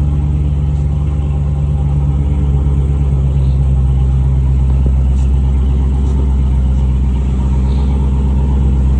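Car engine idling steadily on a cold start, after sitting for a day.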